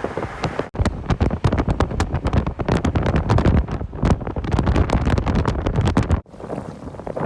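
Strong wind buffeting the microphone: a loud, gusty rumble with crackling. It breaks off sharply about a second in and again near the end.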